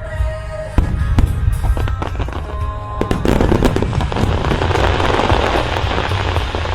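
Aerial fireworks: several sharp bursts about a second in, then from about three seconds a dense crackling of many small pops. A low rumble and music run beneath throughout.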